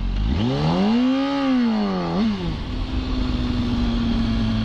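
Motorcycle engine revving: the pitch climbs for about a second, then drops back with a brief blip. After that the engine runs at a steady pitch.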